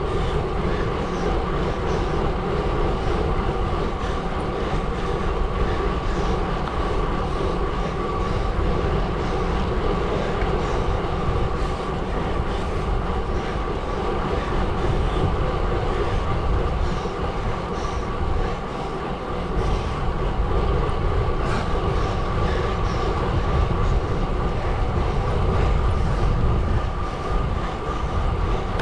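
Gravel bike tyres rolling over a gravel road, a steady rumble and hiss that dips briefly twice in the second half.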